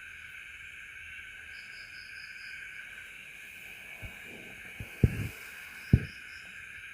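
Steady night chorus of crickets or similar insects, with a faster pulsed trill coming and going above it. Four dull knocks or thumps about four to six seconds in, the two near the end much louder and sharper than the rest.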